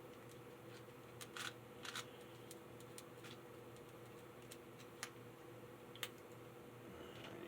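Faint steady electrical hum, with a handful of sharp clicks and taps as the model locomotive and its power connections are handled on the bench.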